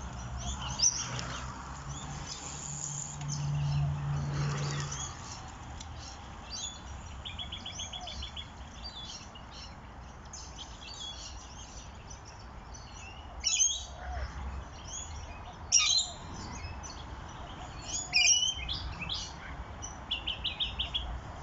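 Wild birds calling in a mixed chorus: many short chirps, whistles and a couple of fast trills, with a few sharp, louder calls in the second half. A low steady hum sits under the first five seconds or so.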